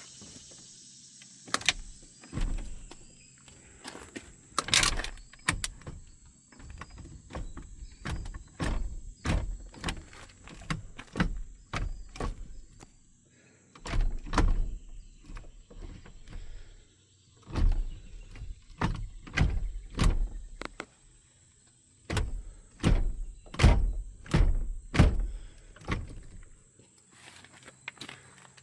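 Irregular knocks, clunks and thumps, many in quick succession and some in tight clusters, typical of a vehicle's doors and interior parts being handled. A faint steady high-pitched whine runs under them.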